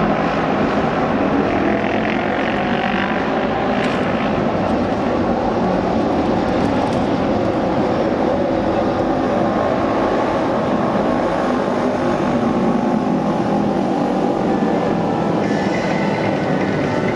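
Several Japanese auto race motorcycles running at speed together around the oval track, their engines blending into one steady, loud note.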